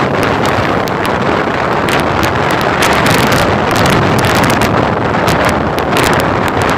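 Helicopter running close by, its rotor downwash blowing hard across the microphone as a loud, steady rush of wind noise.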